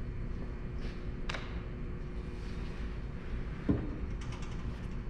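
Pieces of wood being handled on a table saw as the scrap is cleared: a sharp click about a second in and a louder wooden knock near four seconds, followed by a few small clicks, over a steady low hum.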